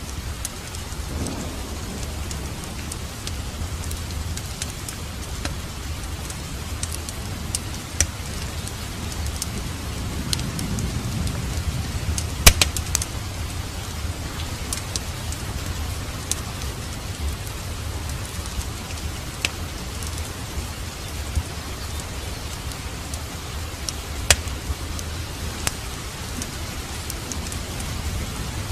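Steady rain with a wood fire crackling in a fireplace: scattered sharp pops over an even hiss, with a loud cluster of pops about halfway through.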